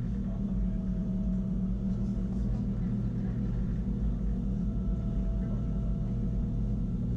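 Wengernalp Railway rack train running, heard from inside the carriage: a steady low rumble with a constant hum and a faint higher whine.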